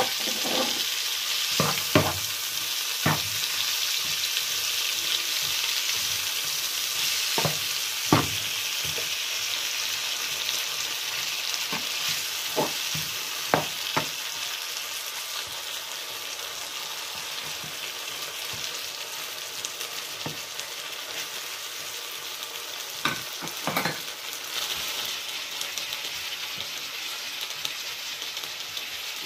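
Chopped tomatoes, peppers, peas and sweetcorn sizzling steadily as they fry in a coated pan. A spatula scrapes and knocks against the pan now and then as the vegetables are stirred, in short clusters of knocks.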